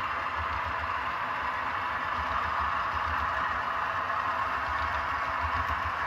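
ESU LokSound sound decoders in HO scale Conrail C30-7A model locomotives playing a GE 12-cylinder diesel prime mover, running steadily.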